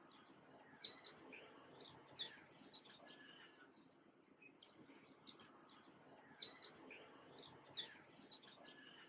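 Faint songbirds chirping and twittering: short high chirps and quick whistles in two similar bursts, about a second in and again near six and a half seconds in.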